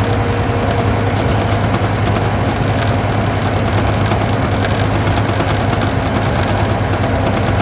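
Isuzu Gala coach's V-type diesel engine running steadily as the bus drives along, heard from inside the passenger cabin as an even low drone. A few light ticks sound about three to five seconds in.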